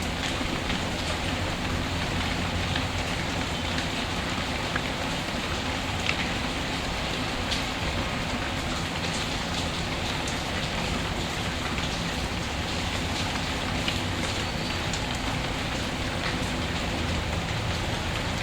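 Steady heavy rain falling as an even hiss, with a low rumble underneath, mixed with the scattered sharp pops and crackles of a wood fire in a fireplace.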